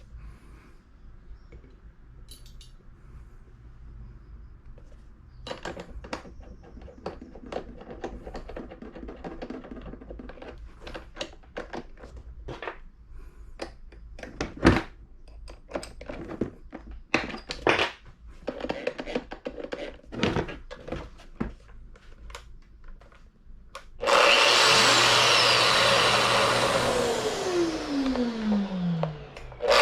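Scattered clicks and knocks of tool handling, then near the end an electric power tool's motor starts suddenly and runs loudly, with a whine that falls steadily in pitch.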